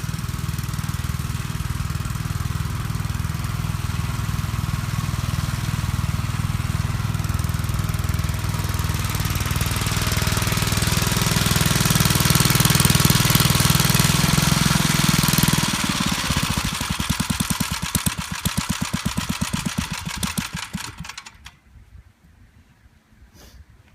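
1959 Gravely Model L's single-cylinder engine running steadily, then shut off about 15 seconds in: the firing slows into separate, spaced chuffs and dies out about five seconds later.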